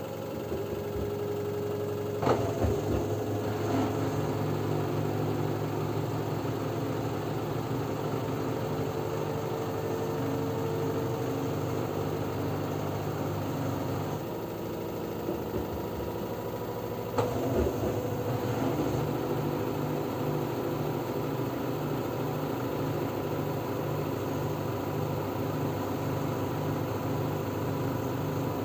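LG F10B9LD washing machine in its spin cycle, the drum turning with a steady motor hum. A couple of short knocks sound, about two seconds in and again around seventeen seconds.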